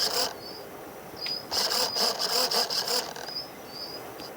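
Insects trilling in two pulsed bursts of about a second and a half each, with a few short, thin, high chirps between them.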